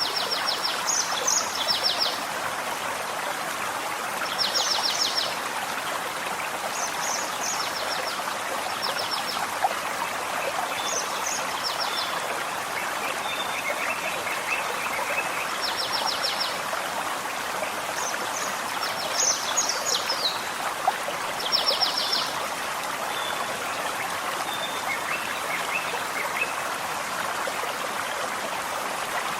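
Forest stream flowing steadily. Over it, a small songbird sings short, rapid trilled phrases every few seconds.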